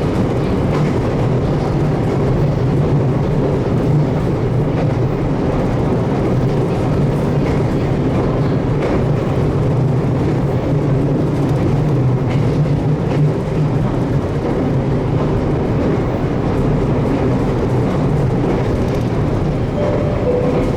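JR Kyushu 813 series electric train running steadily between stations, heard from inside the passenger car as continuous rumbling running noise.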